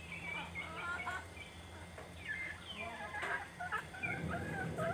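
Free-range village chickens calling: a jumble of short, overlapping chirping calls from several birds, over a steady low hum.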